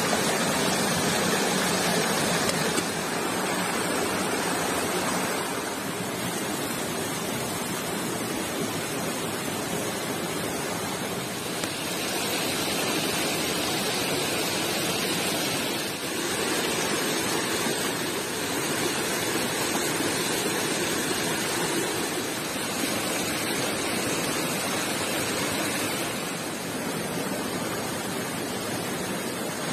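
Stream water rushing and splashing over stones, a steady full hiss with small shifts in level a few times.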